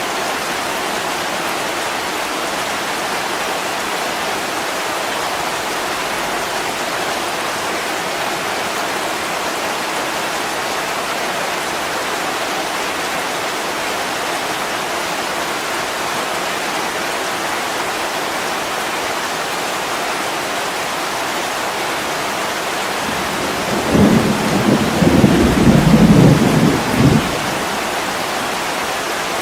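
Steady heavy rain on a window, with a low rumble of thunder lasting about three seconds near the end.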